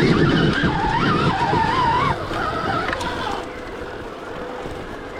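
Stark Varg EX electric dirt bike's motor whining, its pitch wavering up and down with the throttle, over a rough rumble of riding over the trail. The rumble drops about two seconds in, and the whine fades out a little later.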